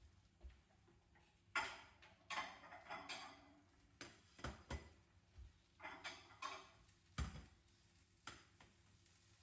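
Irregular light clicks, knocks and short scrapes of kitchen utensils and cookware, about ten in all. The sharpest knock comes a little past seven seconds in.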